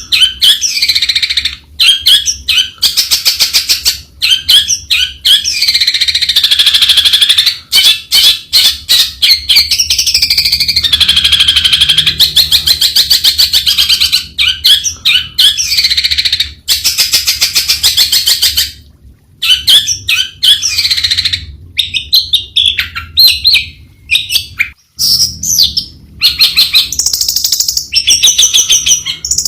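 Long-tailed shrike singing a loud, long, varied song of rapid chattering notes and rising-and-falling warbled phrases, with a couple of brief pauses in the last third.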